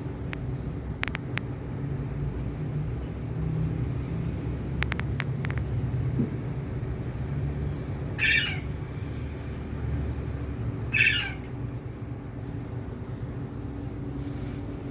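Pet Indian parrot giving two short, harsh squawks about three seconds apart, over a steady low rumble.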